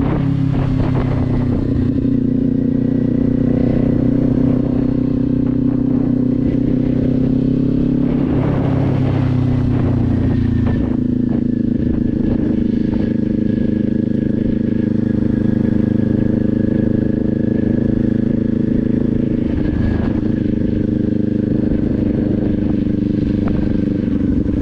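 Kawasaki Z400's parallel-twin engine running steadily while the motorcycle is ridden, its note changing about eight to eleven seconds in, with wind rumbling on the microphone.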